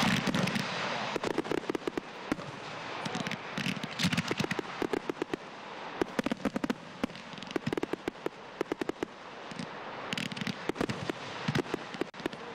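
Frontal consumer firework battery firing shot after shot: clusters of rapid sharp pops, with a few louder bangs near the start, about four seconds in and again about ten seconds in.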